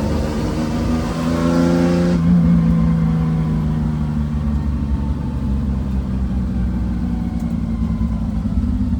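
1973 Porsche 911 RSR's air-cooled flat-six engine pulling up through the revs for about two seconds, then the note drops suddenly as the driver shifts or lifts off, and the engine runs on at lower, steady revs.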